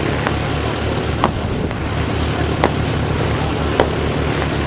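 Steady low engine drone of a display aircraft, with wind noise and a sharp click about once a second.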